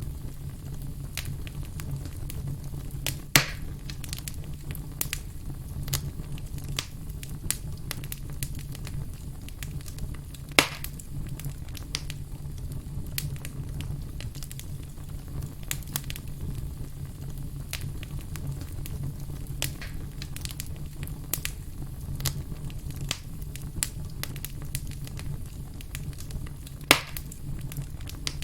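Wood fire crackling steadily over a low rumble, with many small snaps and three louder pops.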